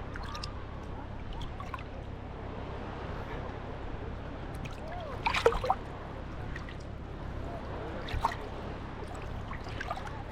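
Small sea waves lapping and splashing at the water's edge over a steady low wash. The loudest splash comes about five seconds in, with smaller ones at about eight seconds and near the end.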